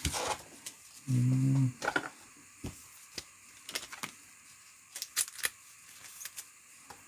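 Trading cards and packs being handled: scattered light clicks, taps and rustles, with a brief low hum about a second in.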